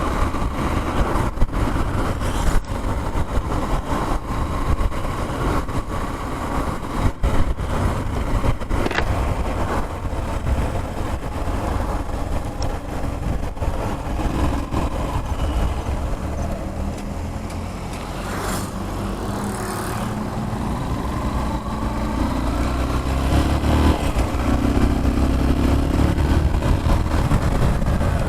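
Motorcycle engine running on the move, with wind rushing over the microphone. Its pitch rises and changes in the last several seconds as it speeds up.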